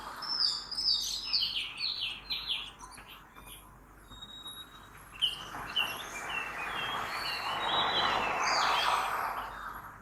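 Several birds chirping and singing, with a quick run of repeated falling chirps in the first few seconds and more scattered calls later. Underneath, street traffic noise swells in the second half and fades out near the end.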